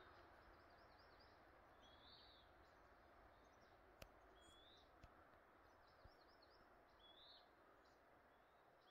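Faint birdsong: a songbird twice sings a short phrase, a run of quick high notes followed by a rising, arching whistle, over a low outdoor hiss. Three faint clicks about a second apart come near the middle.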